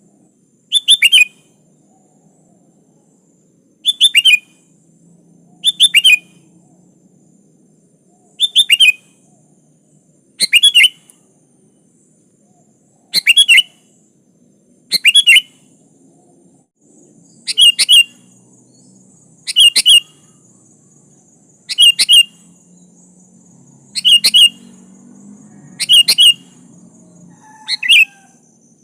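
Sooty-headed bulbul calling over and over: short bursts of two or three quick, falling notes, repeated about every two seconds.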